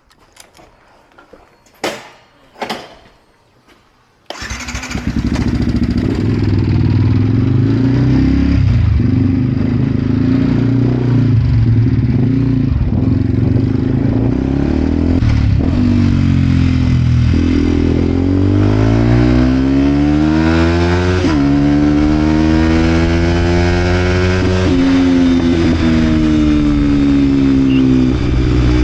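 Vent Derapage 125 single-cylinder four-stroke motorcycle engine with an aftermarket Scalvini full exhaust. Two sharp clicks come first; about four seconds in the engine starts and idles loudly with a few short blips. In the second half the revs climb and fall in long sweeps, broken by a couple of sudden drops.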